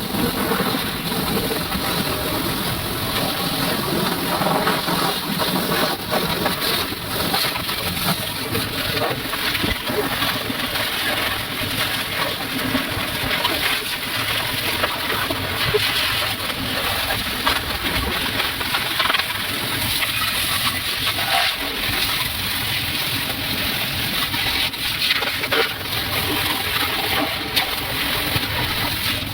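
Water spraying and splattering steadily, as in a car being washed.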